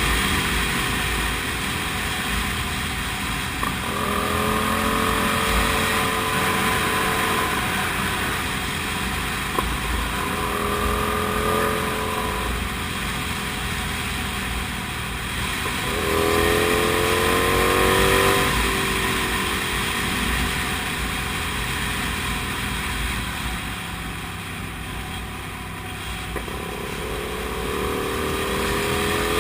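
Kasinski Comet GTR 250's V-twin engine under way on the road, its pitch jumping up with the throttle several times and sinking slowly in between, over a steady rush of wind noise.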